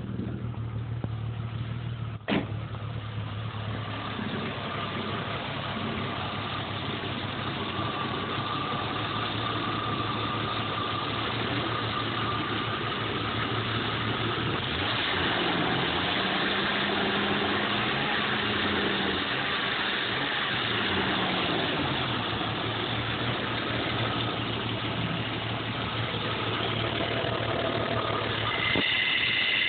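1987 Jeep Cherokee Limited engine idling roughly, with one sharp click about two seconds in.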